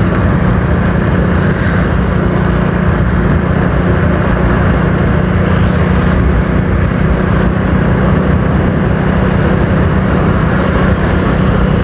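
Motorcycle cruising at a steady speed: the engine's hum holds one pitch throughout, under a loud, even rush of wind and road noise.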